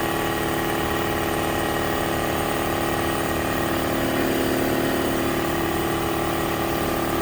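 A shop machine running steadily, a constant hum with a fixed pitch and no change in speed.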